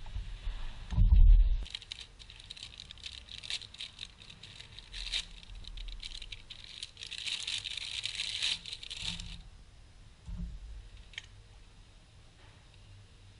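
Handling noises: a dull thump about a second in, then scattered light clicks, rattles and rustling that grow busier near the middle and then die away.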